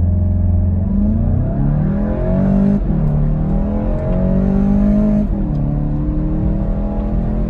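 2019 VW Golf GTI's 2.0-litre turbo four accelerating hard at full throttle from a boosted launch, heard from the cabin. The engine note climbs steadily and drops abruptly twice, at about three and five seconds in, as the 7-speed DSG upshifts.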